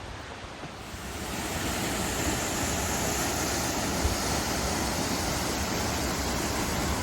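Waterfall rushing: a steady wash of falling water that grows louder about a second in, then holds.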